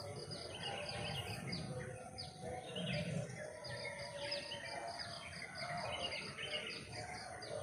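Birds calling. A high note repeats about four times a second, with several shorter downward-sliding calls over it, against a low, noisy background.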